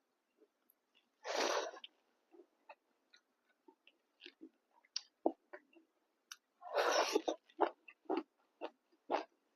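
Close-miked eating of rice, pork and dal: chewing and mouth sounds made of many short, wet clicks and smacks. Two longer hissing noises, each about half a second long, come about a second in and again near seven seconds.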